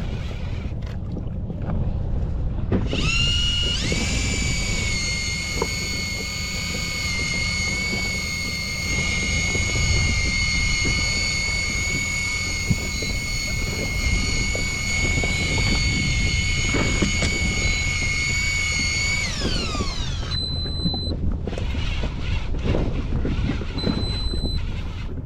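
Electric fishing reel motor whining steadily at a high pitch while winding, then winding down and stopping; two short high beeps follow. Wind and water rumble on the boat throughout.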